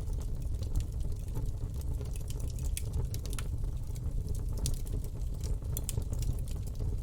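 Campfire burning: wood crackling and popping in scattered sharp snaps over a steady low rumble of the flames.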